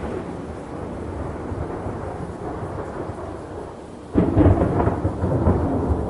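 Thunderstorm ambience: steady rain with low rumbling thunder, and a louder thunder crack breaking about four seconds in and rolling on.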